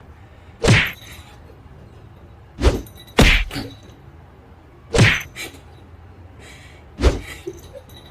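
Five heavy thuds at uneven intervals, two of them close together near the middle.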